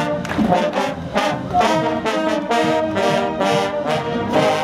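Marching band brass, trombones and trumpets, playing a loud, rhythmic tune with sharply accented notes about two or three times a second.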